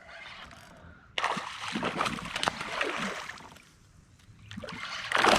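Water splashing and sloshing as a hooked fish thrashes at the surface beside a fishing kayak, starting about a second in and dying away after a couple of seconds.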